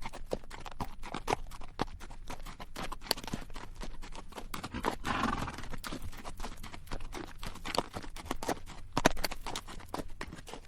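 A ridden horse walking on rocky dirt: irregular clip-clop of hooves on stones, with the bridle rattling and the saddle creaking. About halfway through, the horse gives one breathy snort.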